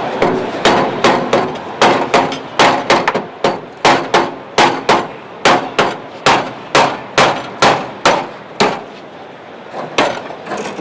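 Hammer blows on the steel body panels of a Triumph TR7, struck about two to three times a second with a short metallic clang, working at the spot welds. The blows stop for a moment near the end, then pick up again.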